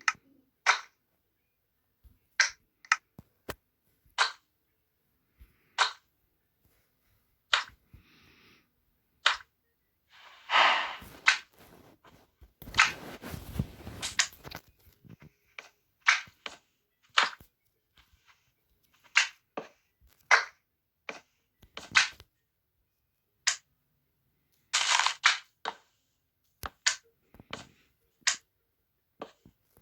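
A series of sharp knocks and clicks at uneven intervals, about one to two seconds apart, with a few longer noisy sounds lasting a second or more around the middle and near the end.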